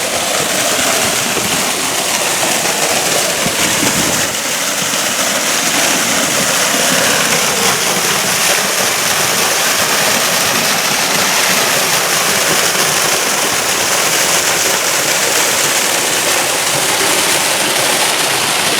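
Seasonal waterfall running full after rain, a steady loud rush of falling water.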